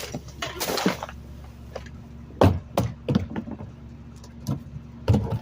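Rear-loading garbage truck engine running steadily, with several sharp knocks and bangs of trash cans and bags hitting the rear hopper.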